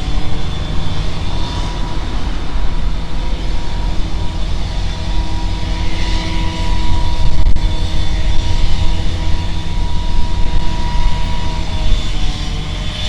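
Steady engine drone over a loud low rumble, with a few held pitches.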